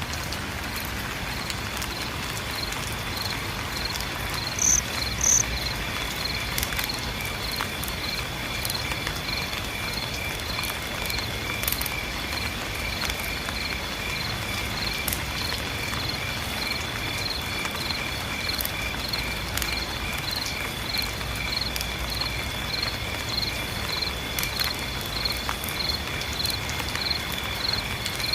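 Rain pattering with insects chirping in a steady rhythm over a continuous high trill. Two short, louder high chirps come about five seconds in.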